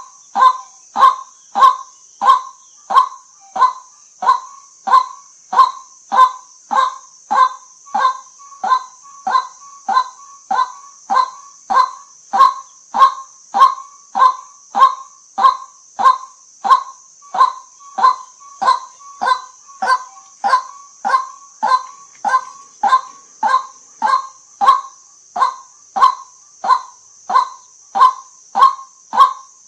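White-breasted waterhen giving its repeated "kwak" call, short loud notes at an even pace of about two a second without a break, over a steady high hiss.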